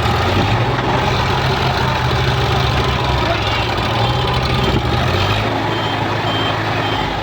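Heavy diesel engine running with a steady low drone. From about five and a half seconds in, a reversing alarm sounds short high beeps at a steady pace.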